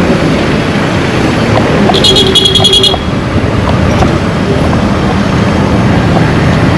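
Busy roadside traffic noise, with one high-pitched vehicle horn honking in rapid pulses for about a second, about two seconds in.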